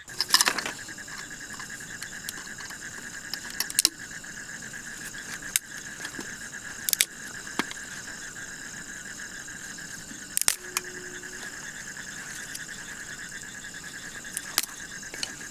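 Steady, high-pitched chorus of night insects such as crickets, with a few sharp clicks and knocks scattered through it.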